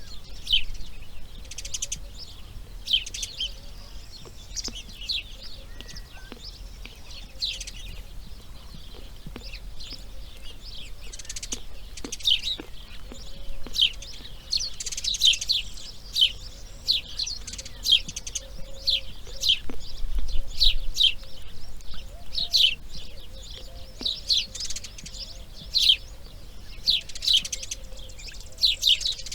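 Birds chirping: a steady run of short, high, falling chirps that grows busier through the second half.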